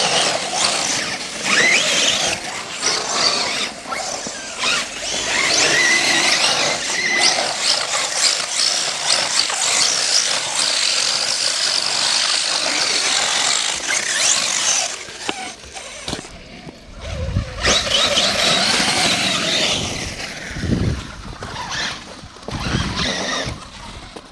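Brushless electric motor of a radio-controlled car whining, rising and falling in pitch as the car is driven in snow. Low rumbles come and go in the later half.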